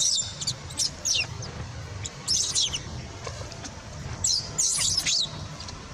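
High-pitched animal chirps and squeaks: several short calls, mostly falling in pitch, come in clusters over a low, steady background hum.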